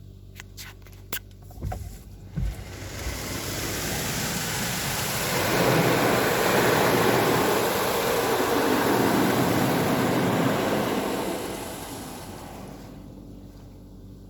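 High-pressure water spray from a PDQ Laserwash G5 touchless car wash hitting the car, swelling as the spray arm comes past, holding for several seconds, then fading away. A few sharp clicks and two dull thumps come just before the spray builds.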